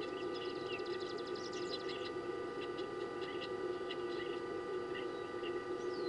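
Small birds chirping and twittering: many short, high calls and quick trills, several birds at once, over a steady low hum.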